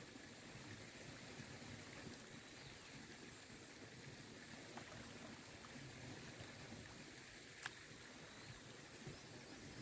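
Faint trickle and lapping of hot spring water, with one sharp click about three quarters of the way through.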